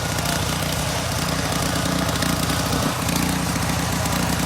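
Steady mechanical drone with a hiss over it, unchanging throughout: machinery running at a car wash.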